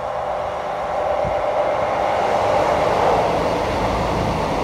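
Passenger train with coaches passing directly underneath: a steady rush and rumble of wheels on rail that grows louder as it comes under.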